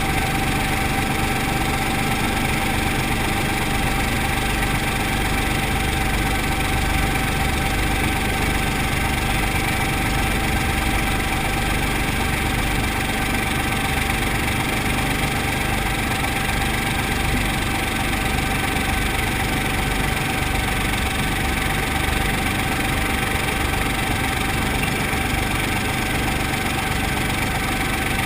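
Brantly B-2B helicopter's four-cylinder Lycoming piston engine and rotor running steadily, a constant drone with a fixed whining tone.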